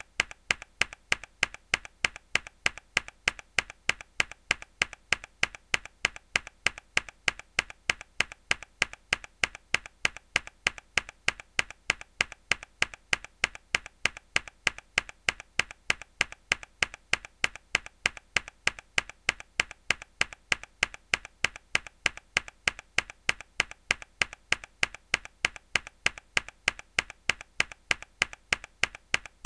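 A key on a mechanical keyboard pressed hard again and again in an even, unbroken rhythm of sharp clicks, several a second, with a fainter click between the loud ones.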